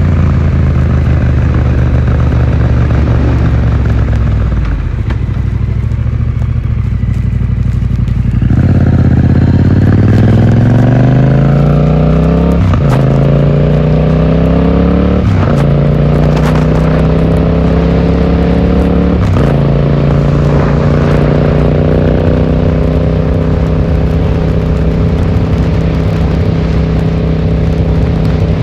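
Yamaha XSR700's parallel-twin engine through an Akrapovič exhaust, heard while riding and picked up by a phone in the rider's pocket. It runs steadily, eases off for a few seconds, then pulls hard, rising in pitch through three upshifts near the middle, and settles into a steady cruise.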